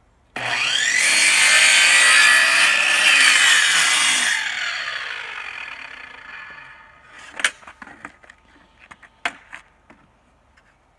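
Electric chop saw starting and spinning up, its blade cutting through a composite decking board for about three seconds, then the motor winding down slowly as the blade coasts to a stop. A few sharp knocks follow near the end.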